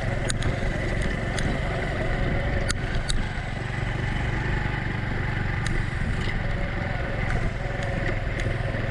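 Honda Cub's small single-cylinder four-stroke engine running steadily while riding a rough mountain road, with a few sharp clicks scattered through.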